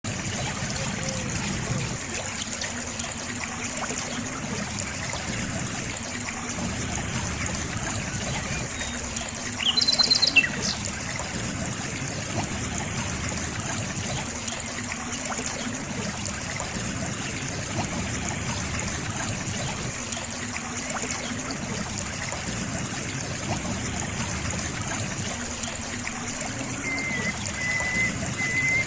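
Small garden waterfall trickling and splashing steadily into its pool. About a third of the way in, a short, loud, high chirp cuts in briefly, and a thin high tone sounds near the end.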